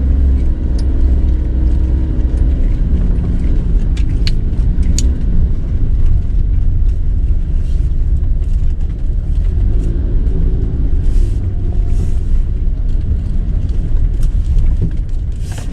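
A motor vehicle's engine with low rumble, running steadily; a few sharp clicks come about four to five seconds in.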